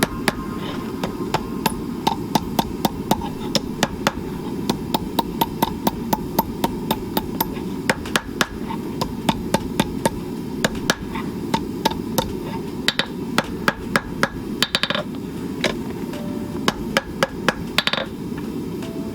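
Hand hammer striking steel on an anvil while forging a flint striker, in runs of sharp blows a few per second with short pauses between. A steady low rushing noise runs underneath.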